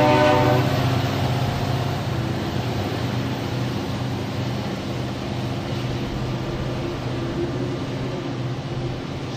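A train horn's chord fades out within the first second or two, leaving the steady low rumble of a Norfolk Southern train's diesel locomotives running.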